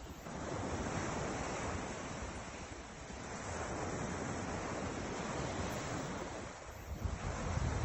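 Ocean surf washing onto the shore, swelling and fading in slow surges. Wind buffets the microphone with low rumbles near the end.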